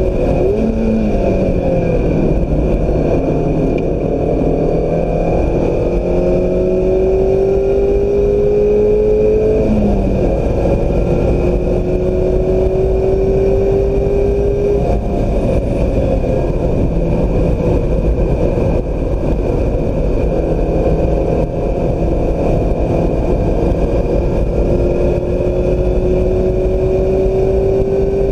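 Mazda MX-5 Miata's four-cylinder engine under hard acceleration on track, its pitch climbing in long pulls. The pitch breaks sharply about a third of the way in and again around halfway, holds lower for a while, then climbs again near the end, over steady road and wind noise.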